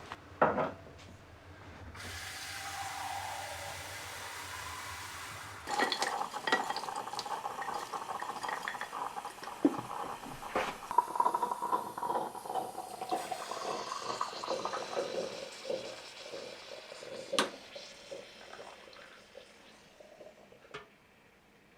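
Kitchen sounds: water running and being poured into a vessel, then dishes and cutlery clinking, with a sharp knock near the end.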